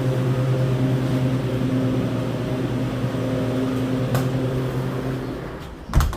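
Refrigeration equipment of a 5-ton blast freezer running: a steady low electrical hum from the compressor with a rush of fan air. A sharp knock comes near the end.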